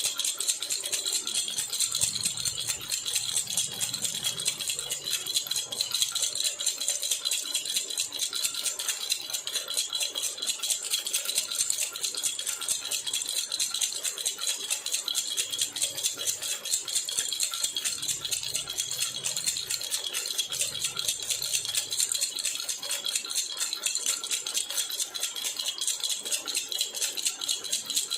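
Baby rattle (jhunjhuna) shaken rapidly and without pause, a steady bright clatter of many small jingles, with a few faint low bumps now and then.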